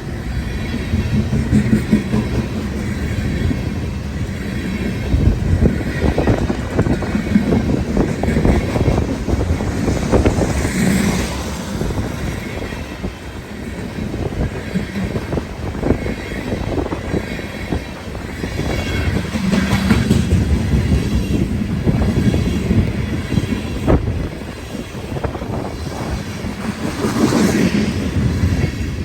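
Loaded freight train rolling past: a steady rumble of wheels on rail with irregular clicking and clatter, and a brief brighter, higher-pitched swell twice, about a third of the way in and near the end.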